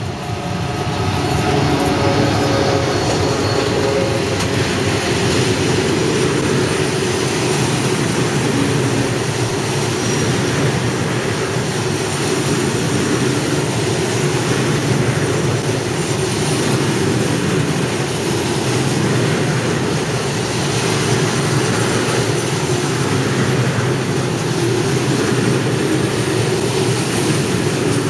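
Freight train of covered hopper wagons behind a Slovak class 240 electric locomotive rolling slowly past close by, with a steady rolling noise of steel wheels on the rails. Faint steady tones in the first few seconds come as the locomotives pass.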